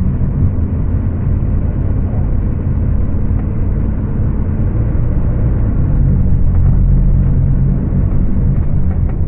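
Scania K250UB bus's five-cylinder diesel engine running under way at high revs, recorded on a phone. The engine note shifts about five and a half seconds in and grows a little louder.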